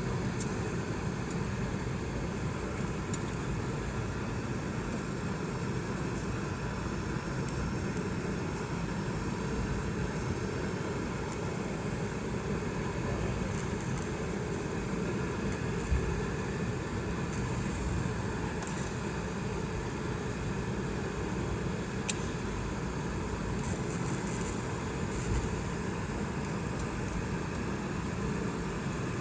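Steady engine and airflow noise inside the cabin of a Boeing 717, whose rear-mounted Rolls-Royce BR715 turbofans give a constant low drone. A couple of brief clicks sound over it.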